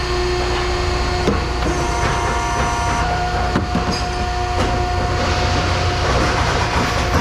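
Heavy scrap-handling machinery running with a steady low rumble and a constant whine, with a few sharp metal knocks about a second in, midway, and a second later.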